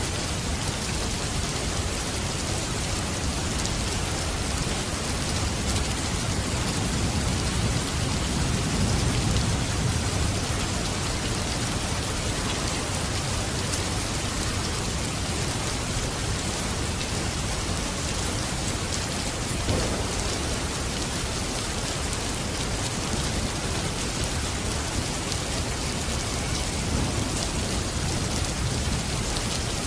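Steady heavy rain falling, with a low rumble of thunder swelling about nine seconds in and again near the end. A single short knock is heard about twenty seconds in.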